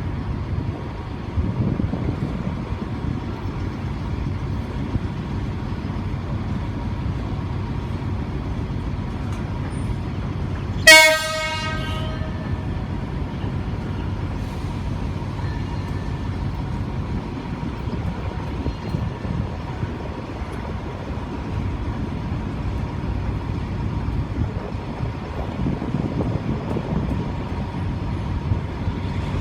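Diesel-hauled passenger train's engine rumbling steadily, with one short, loud blast of the locomotive's horn about a third of the way in, the signal given as the train departs the station.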